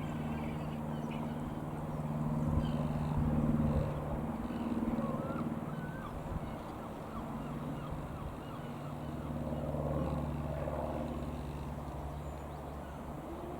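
Single-engine light aircraft's piston engine droning overhead, its pitch shifting a couple of times, with a few short bird calls.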